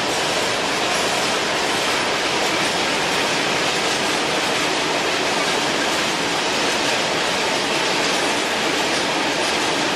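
Loaded freight train of open coal wagons rolling past, with steady, even wheel-on-rail noise.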